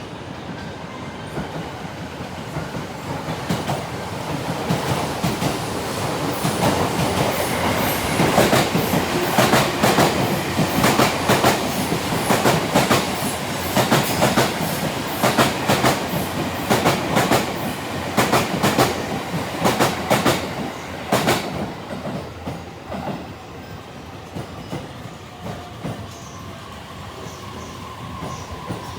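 E257 series 2000 electric multiple unit passing through a station at speed: the rumble builds, then the wheels click rapidly over the rail joints for a long stretch in the middle as the cars go by, and the sound fades away after that.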